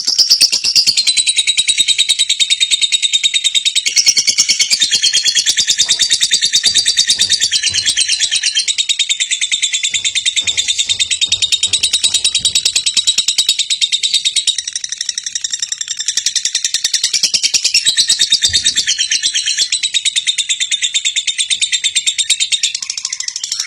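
Lovebird singing a long, unbroken, rapid high-pitched chattering trill.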